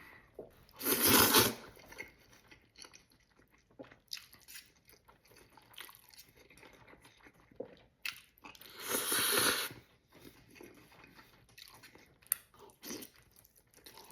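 Close-up eating of black bean paste noodles: two loud slurps, about a second in and again around nine seconds, with soft chewing and wet mouth clicks between them.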